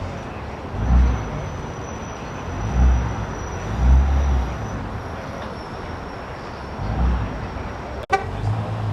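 Steady roadway traffic and vehicle engine noise, with low rumbling swells every second or two and a sharp click about eight seconds in.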